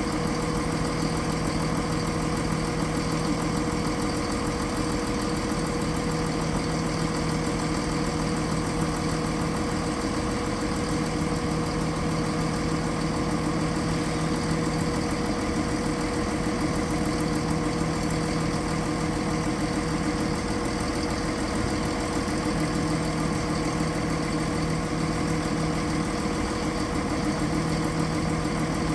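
Class 170 Turbostar diesel multiple unit standing with its underfloor MTU diesel engines idling: a steady, even hum with a constant whine over it.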